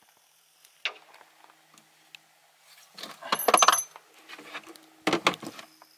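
Gear and a plastic cooler being handled in a car's boot: a knock about a second in, then a loud clattering rattle with a bright metallic ring, and another clatter near the end.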